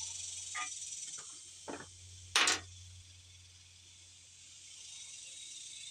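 Steady high-pitched insect buzzing with a low hum beneath it. A few brief handling knocks are heard, the loudest a sharp clatter about two and a half seconds in.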